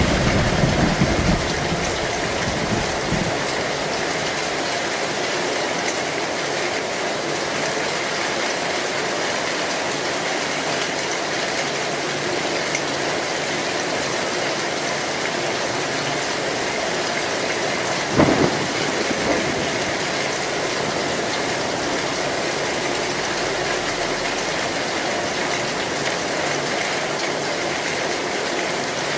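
Heavy rain pattering steadily on a metal roof. A low thunder rumble fades out in the first few seconds, and a sharp thunderclap comes about eighteen seconds in, with a smaller one a second after it.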